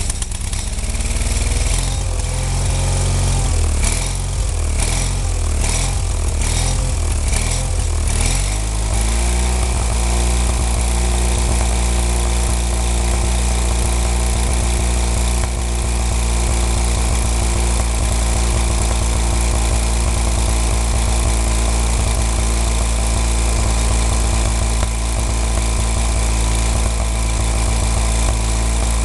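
Onan P220G 20 HP two-cylinder engine of a 1995 Wheel Horse 520H garden tractor running. Its speed rises and falls unevenly for the first several seconds, then settles to a steady run.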